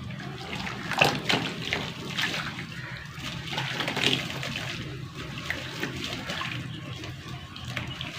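Sand-cement chunks crumbling into water: irregular crackling crunches over a wet, trickling splash, with the loudest crunch about a second in.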